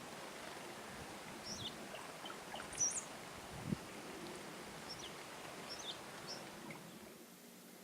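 Chickadees giving scattered short, high chirps over a steady outdoor background hiss, with a single soft knock about halfway through.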